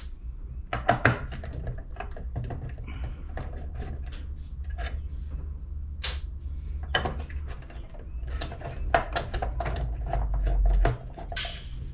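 Scattered small clicks and taps of a nut driver and loose metal parts as the screws holding the coil in an HEI distributor cap are backed out, over a steady low hum. A louder low rumble comes about ten seconds in.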